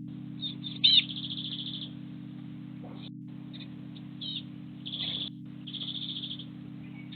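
Small garden birds chirping: a loud sharp call about a second in, then short rattling trills and single chirps, over a steady low hum.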